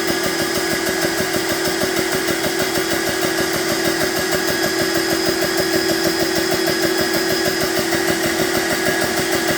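BSA high-pressure PCP air compressor running steadily: a constant hum with a fast, even pulsing from the pump, its cooling fans going. The bleed valve has been left open, so it runs without building pressure.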